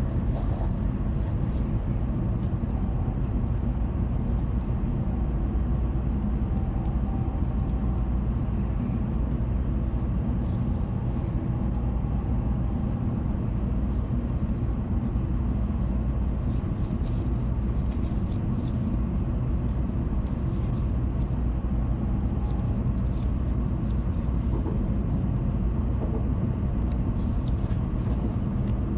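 Shinkansen train running noise heard inside the passenger cabin: a steady low rumble with scattered faint ticks.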